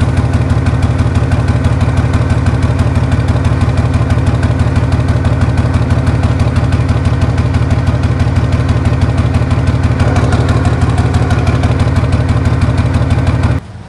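Heavy diesel engine of a bulldozer running steadily with a fast, even pulse, cutting off abruptly near the end.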